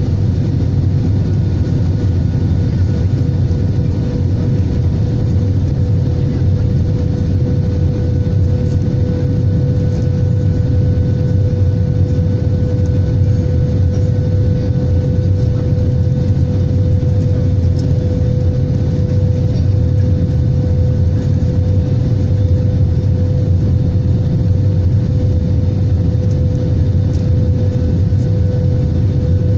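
Airbus A320 airliner in flight on approach: a steady, loud low rumble of engines and rushing air with a steady mid-pitched hum over it, unchanging throughout.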